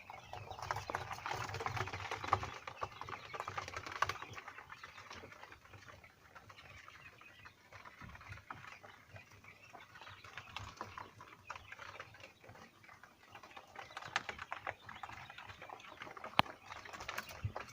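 Five-day-old Texas quail chicks moving about, with many small ticks and scratches and a few sharper clicks among them.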